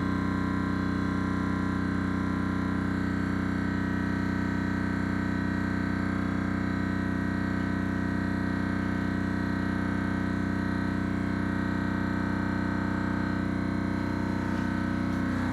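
Thermoacoustic engine running: a steady drone made of several held tones, with a faint fast pulsing.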